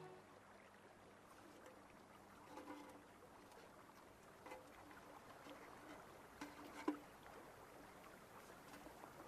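Near silence after the music stops, with a few faint scattered clicks and soft knocks.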